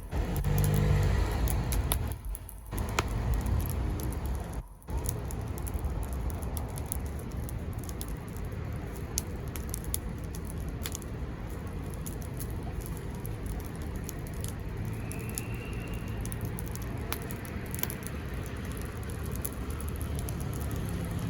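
Wood bonfire crackling, with frequent sharp snaps and pops over a steady low rumble that is louder for the first couple of seconds. A short high whistle sounds about three-quarters of the way through.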